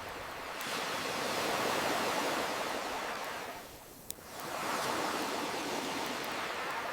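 Ocean waves washing ashore in slow swells, building to a peak about two seconds in, ebbing near four seconds and rising again. A single sharp campfire pop sounds in the lull between waves, about four seconds in.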